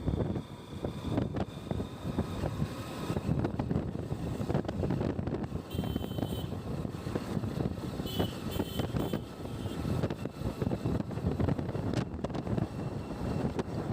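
A vehicle driving along, its low running rumble mixed with heavy wind buffeting on the microphone in irregular gusts.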